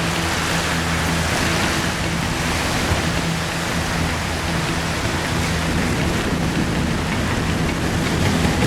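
Steady rushing noise of a strong north wind, with a low hum under it in the first few seconds.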